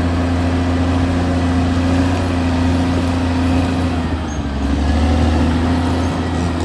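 Caterpillar D6R XL bulldozer's diesel engine running with a steady low drone. About four seconds in, the engine note shifts and the level dips briefly before recovering.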